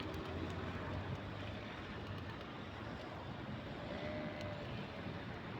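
Steady outdoor city background: a low traffic hum with general street noise, and a faint short held call or voice about four seconds in.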